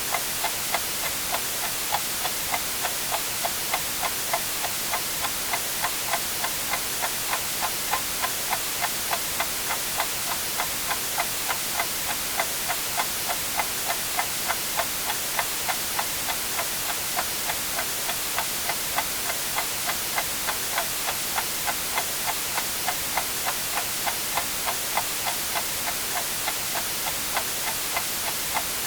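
Clock ticking evenly, about two ticks a second, over a steady white-noise hiss.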